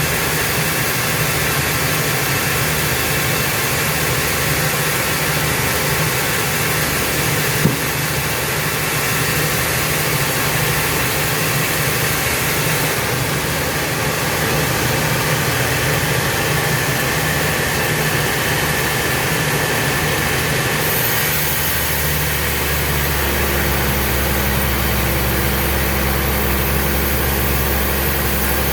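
Sawmill machinery running steadily, a dense mechanical noise; about three quarters of the way through, the sound changes and a deeper steady hum sets in.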